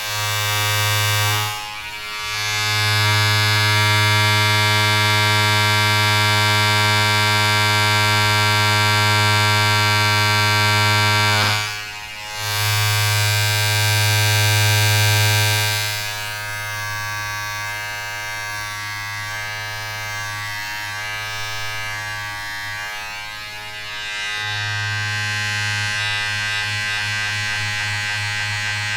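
Steady electric buzzing with a low hum and many overtones. It drops away briefly about two seconds in and again about twelve seconds in, and runs somewhat quieter through the second half.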